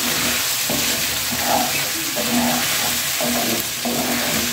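Soaked sabudana with boiled potato sizzling as it roasts in a non-stick pan, while a spatula stirs and scrapes it in repeated strokes about once a second.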